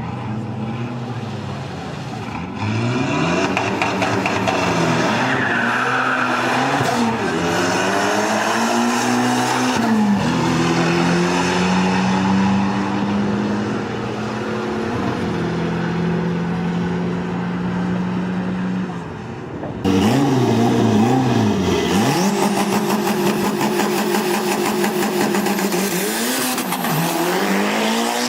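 Tuned car engine being revved: repeated blips rising and falling in pitch, then held steady for several seconds. About twenty seconds in, it cuts abruptly to an engine revving in quick rises and falls again.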